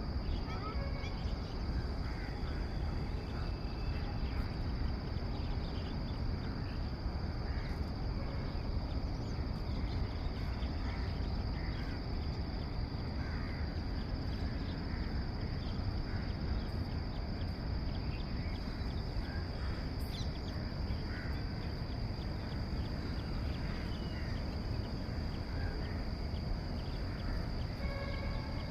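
Outdoor bird ambience: scattered short bird calls over a steady, high-pitched insect drone and a constant low rumble.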